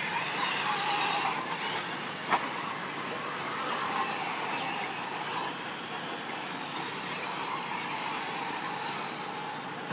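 Radio-controlled 4WD short course trucks racing on a dirt track: a steady mix of motor whine and tyre noise, with one sharp knock about two seconds in.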